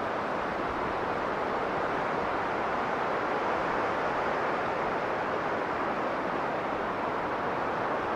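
Strong blizzard wind blowing steadily, a dense even rush of noise with no single gust standing out.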